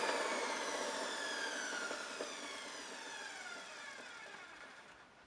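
1960 Hoover Deluxe 652 upright vacuum cleaner's motor winding down after being switched off. Its whine falls steadily in pitch and fades away, with a faint tick or two partway through.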